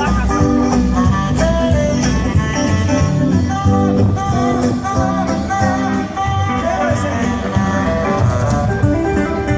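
Live band playing 1950s-style music: guitar over a steady beat.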